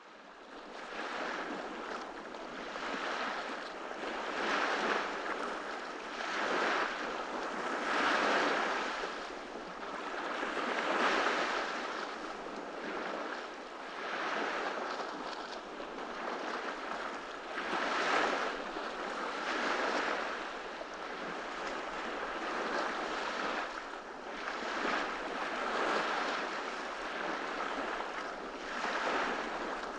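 Ocean surf breaking and washing up on a beach, a steady rush that swells and ebbs every few seconds, starting from silence right at the outset.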